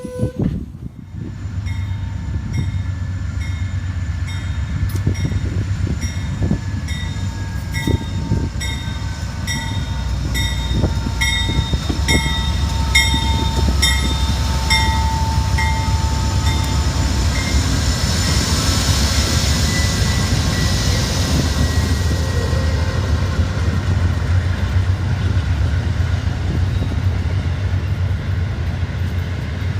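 Diesel-hauled train running past with a steady low rumble. A bell rings at an even pace through roughly the first half and then stops.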